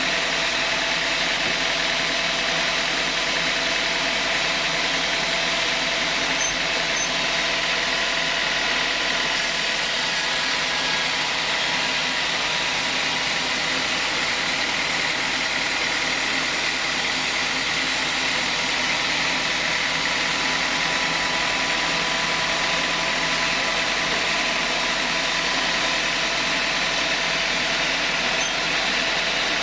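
Sawmill saw machinery running steadily: a continuous, even mechanical noise with a few steady whining tones held throughout.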